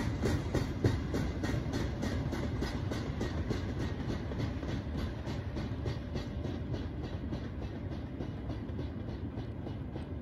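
A steady low rumble with an even, rapid clicking rhythm of about three to four clicks a second, slowly fading.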